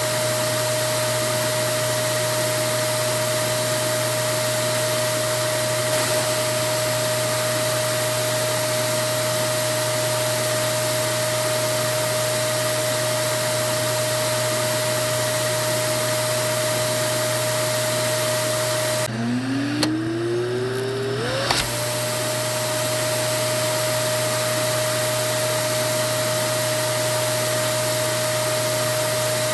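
Vacuum cleaner running steadily: a rushing hiss with a steady motor whine. About two-thirds of the way through the whine breaks off and climbs back up to pitch over about two seconds, ending with a click, then it runs on steadily.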